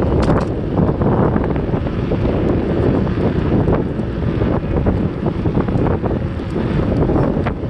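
Wind buffeting the microphone of a moving bicycle, a loud steady rumble, with scattered light clicks and rattles through it.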